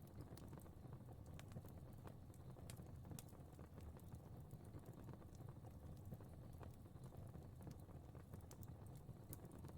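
Faint fire crackling: irregular small pops and snaps over a soft low rumble of burning.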